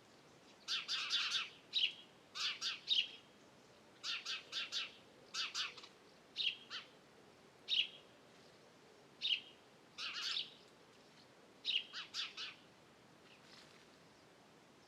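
Songbird chirping in short clusters of quick high notes, about one cluster a second, falling silent about twelve seconds in apart from one faint call.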